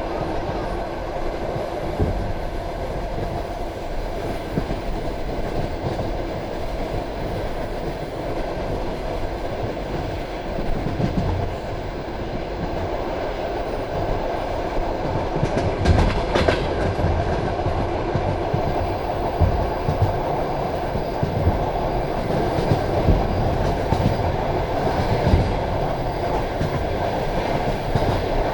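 Passenger train carriage rolling along the track: a steady rumble and rattle with the clickety-clack of wheels over rail joints. A sharper clatter comes about halfway through.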